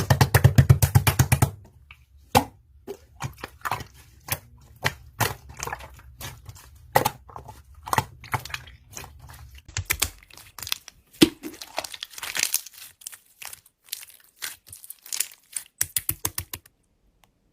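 Slime being squeezed and worked by hand, making crackling clicks and pops. A dense, fast run of clicks comes in the first second and a half, then irregular pops follow and stop shortly before the end.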